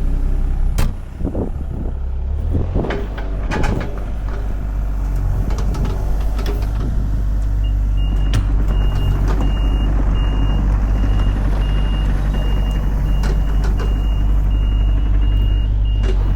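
Heavy diesel equipment running steadily under load, with a few sharp knocks of debris early on. About eight seconds in, the machine's backup alarm starts a steady, evenly spaced high beeping as it reverses.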